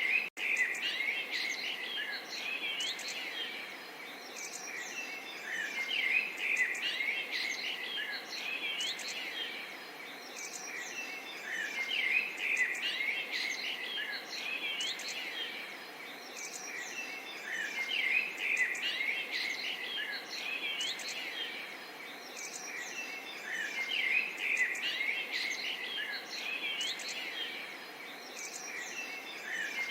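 Small songbirds chirping and twittering in quick clusters that swell about every six seconds, over a faint steady murmur of running water.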